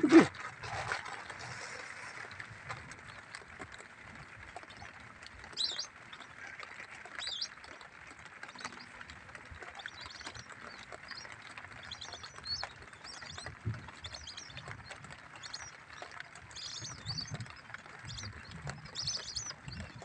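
Short, high bird calls scattered at irregular intervals over a steady background hiss.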